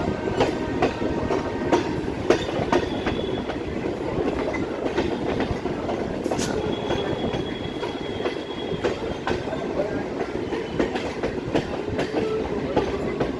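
An old EMU local train running, heard on board: a steady rumble with irregular clicks and clatter of the wheels over the rail joints, and a faint high wheel squeal for a couple of seconds midway.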